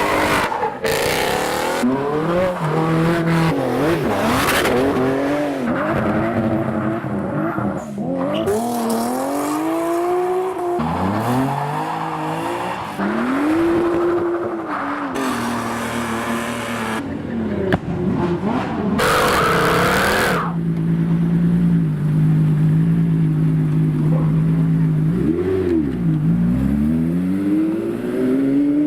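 Supercar engines revving and accelerating hard, the pitch climbing and dropping again and again through gear changes, with several short bursts of tyre squeal. About three-quarters of the way through one engine holds a steady note, then drops and climbs again near the end.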